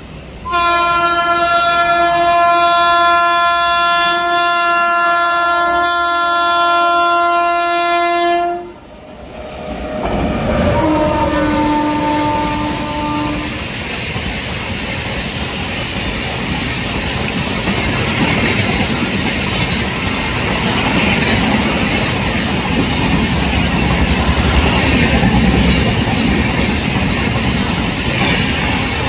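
Indian Railways WAP-7 electric locomotive sounding its horn in one long steady blast of about eight seconds, then a shorter, lower-pitched blast, as it runs through a station at speed without stopping. The coaches then rush past with the wheels clattering over the rail joints.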